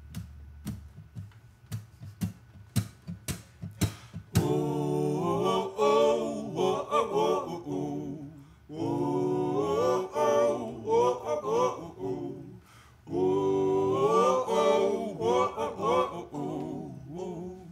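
About four seconds of sharp taps at a steady pace, then voices singing in close harmony, largely unaccompanied, in three phrases with short breaths between them.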